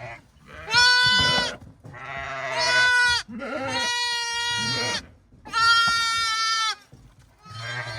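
Sheep bleating: four long, high calls one after another, with another starting near the end.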